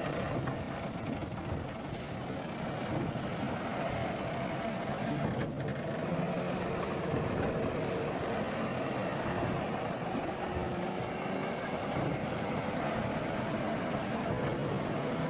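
Heavy earthmoving machinery at work: a large diesel engine running steadily under load, with a few faint ticks.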